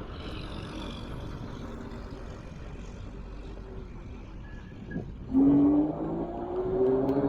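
Wind and road noise from a moving ride, then about five seconds in a loud motor whine that starts up and slowly rises in pitch, as a motor speeding up.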